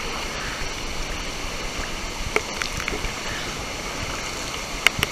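Steady rush of water from the waterfall and its stream, with a few brief sharp clicks about two and a half seconds in and again near the end.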